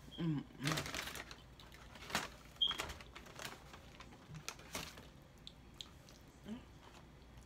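Close-up chewing and crunching of dry KFC food: irregular crackles and clicks, loudest in the first few seconds and fainter after.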